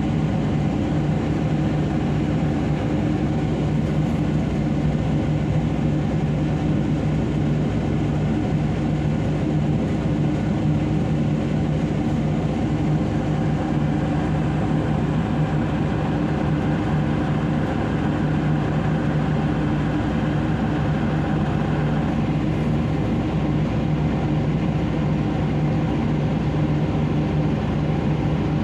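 Heavy diesel engine of the mining machinery running at a steady speed, a constant low drone with no change in pitch or level.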